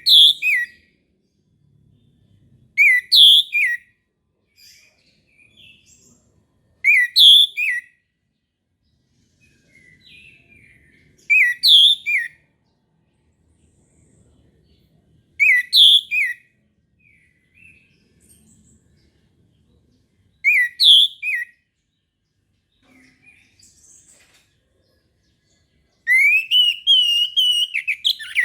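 Orange-headed thrush (anis merah) singing: short, clear whistled phrases repeated about every four seconds, then a longer run of notes near the end.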